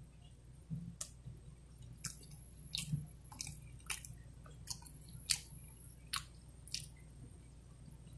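A person chewing food close to the microphone: faint, irregular wet mouth clicks and smacks, about a dozen over the stretch.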